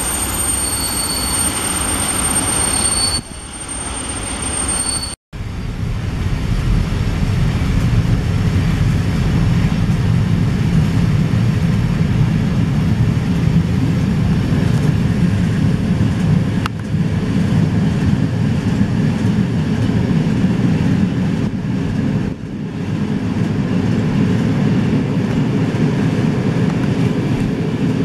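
Passenger train running along the track, heard from inside the carriage: a steady low rumble of wheels on rail. For the first few seconds a high beep repeats about once a second over a steady high whine, then the sound breaks off briefly and the rumble carries on.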